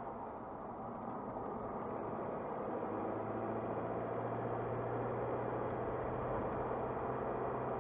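A car driving, its engine hum and road noise steady; the engine note grows stronger about three seconds in.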